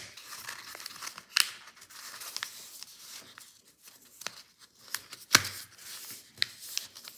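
A sheet of paper being folded and creased by hand: rustling with sharp crackles, two louder ones about a second and a half in and near the end.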